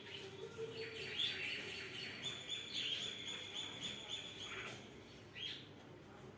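Small birds chirping: a fast run of short, repeated high notes from about a second in, lasting several seconds, then a single call near the end.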